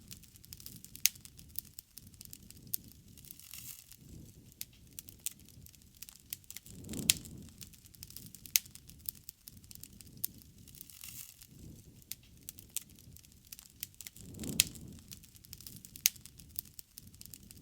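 Bonfire burning, the wood crackling with frequent sharp pops. A low swell of fire noise rises and fades twice, about seven seconds apart.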